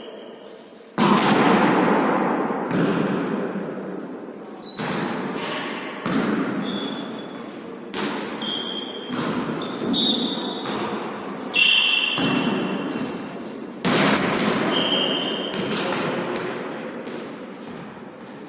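A volleyball being hit and bouncing on the court during a volley tennis rally, with a sharp smack every second or two. Each hit rings out in a long echo, and short high squeaks fall between the hits.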